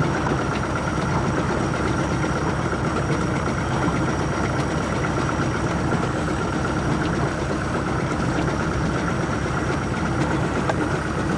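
A boat's motor running steadily at low speed, an even hum with no change through the stretch.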